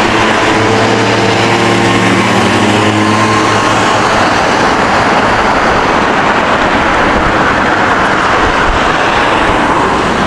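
City street traffic noise: a steady wash of passing vehicles, with an engine's steady hum standing out for the first few seconds.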